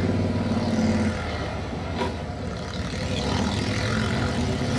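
A motor vehicle's engine running with a steady low rumble, its pitch rising slightly about a second in.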